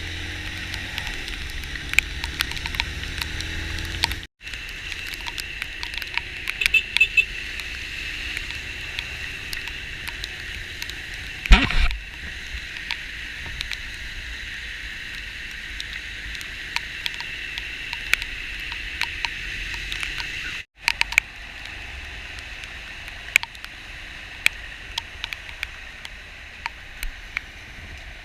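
Heavy rain with many drops ticking close to the microphone over the steady hiss of a vehicle driving through flooded road. There is one loud thump about eleven seconds in, and the sound drops out briefly twice.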